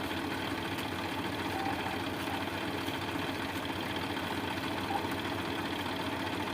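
Tractor engine running steadily at idle, with an even low pulsing.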